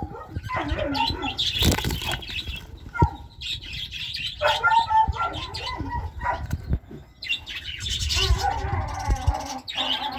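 Small pet birds fluttering and flapping their wings, with short chirping calls in between.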